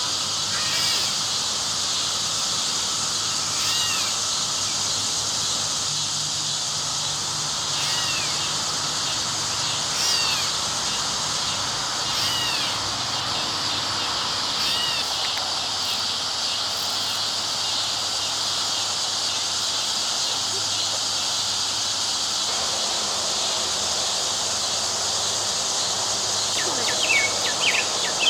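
A dense chorus of Brood X periodical cicadas: a steady, unbroken high-pitched buzzing drone, the males' mating song. Short bird chirps come through it every few seconds.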